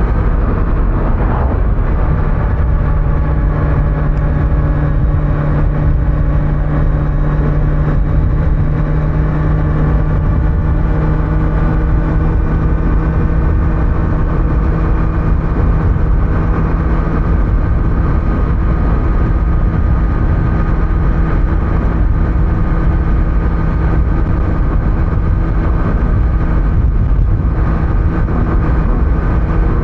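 Kawasaki Z900's inline-four engine pulling at a steady cruising speed, its note holding almost level, under heavy wind and road noise. Heard from a recorder in the rider's backpack.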